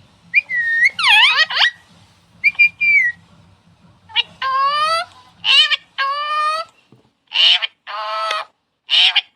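Pet talking parrot whistling and calling: a series of shrill pitched calls, the first swooping down and back up, the later ones rising, with short gaps between them.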